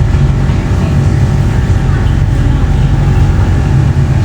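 Steady low rumble and hum inside a tram's passenger cabin, unchanging throughout.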